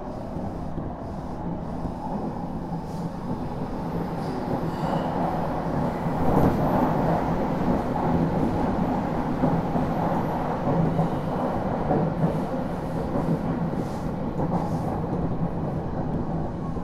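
Odakyu Series 1000 electric train running steadily, heard from inside the car: a continuous rumble of wheels and running gear, a little louder about six seconds in.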